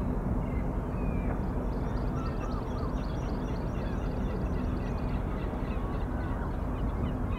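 Birds calling repeatedly in short chirps, with a rapid high chattering series for a few seconds in the middle, over a steady low rumble.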